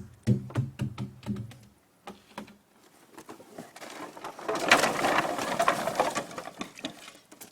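A 5-gallon can of fuel being emptied onto a bonfire pile: a quick run of glugs in the first two seconds, then a steady splashing pour for several seconds.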